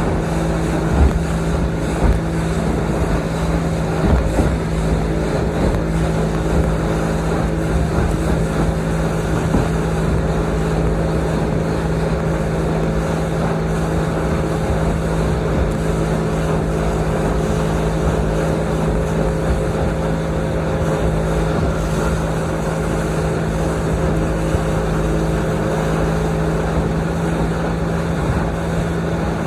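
Boat motor running at a steady speed while underway, its hum holding one even pitch, with wind rumbling on the microphone.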